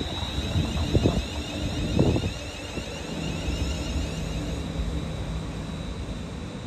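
London Northwestern Railway electric multiple unit moving along the platform: a low rumble with a few heavy clacks in the first two seconds, then a quieter steady hum under a high whine. Some wind on the microphone.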